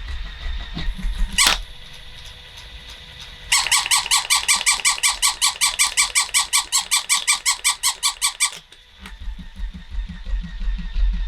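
Battery-powered toy poodle plush running: its small motor hums, a click sounds about a second and a half in, then its speaker plays a fast, even series of electronic chirps, about six a second, for some five seconds before the motor hum returns.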